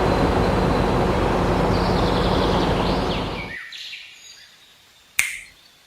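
A steady mechanical noise with a low hum cuts off abruptly about three and a half seconds in. Birds chirp throughout, and a single sharp click comes near the end.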